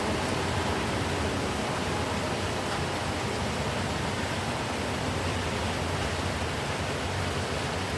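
Steady rainfall: an even, unbroken hiss of rain with no distinct drops or events standing out.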